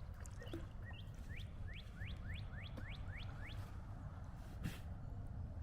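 A songbird singing a quick run of about eight rising whistled notes, roughly three a second, over a low steady rumble. A single soft knock comes near the end.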